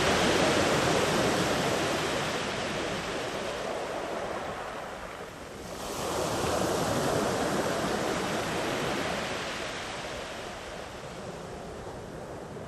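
Sea waves breaking and washing far up the shore. One surge is heard at the start and another about six seconds in, each easing off afterwards.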